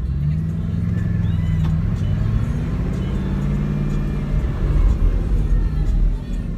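Bugatti Chiron's quad-turbo W16 engine running as the car drives off at low revs, its low note drifting slightly up and down. The rumble grows louder about four to six seconds in.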